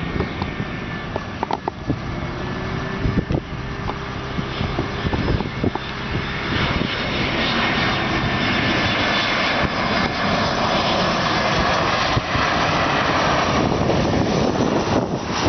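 Jet engines of an Airbus A320-216 (CFM56) on landing approach: a steady rumble with a high fan whine, growing louder about six seconds in.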